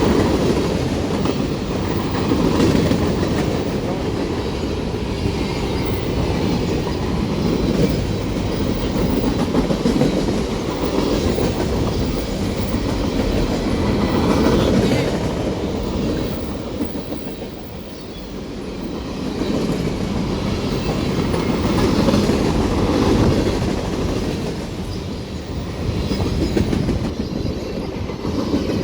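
Freight train rolling past, its railcar wheels clattering over the rail joints, briefly dipping in loudness a little over halfway through.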